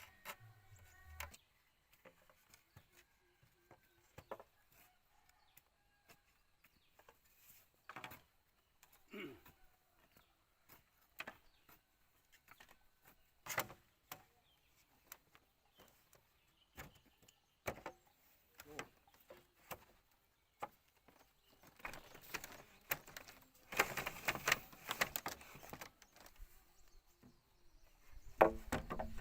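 Scattered light knocks and clicks from hand work on bamboo. About 22 seconds in comes a few seconds of dense, rough scraping, and a couple of sharper knocks follow near the end.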